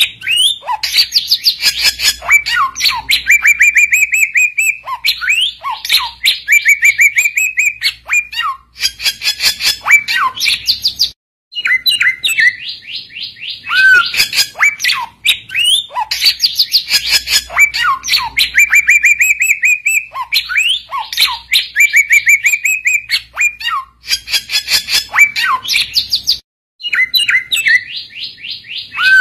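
Samyong bird song: a loud, rapid run of chattering chirps with clear whistled slides. The same phrase sequence repeats, with brief pauses about 11 and 26 seconds in, as in a looped masteran recording.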